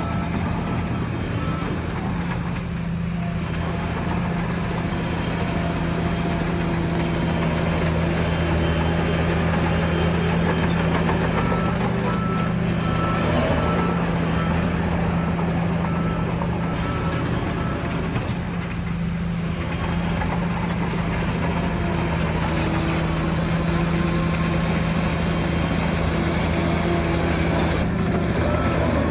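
Heavy diesel earthmoving machine running steadily. A reversing alarm beeps in even pulses for a few seconds at a time, near the start, in the middle and near the end.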